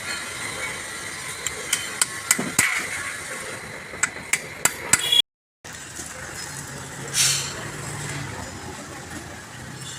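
Hand tools knocking and tapping on metal engine parts: a run of sharp metallic knocks, about three a second, in the first half. After a short cut there is a brief hiss.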